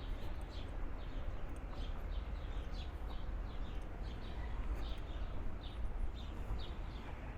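Small birds chirping over and over, a couple of short high chirps a second, over a steady low rumble.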